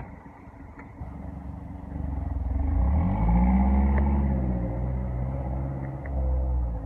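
A 2013 Mazdaspeed3's turbocharged four-cylinder engine accelerating hard: the engine note builds from about two seconds in, climbs in pitch to its loudest around three to four seconds, then falls, with a smaller rise again near the end.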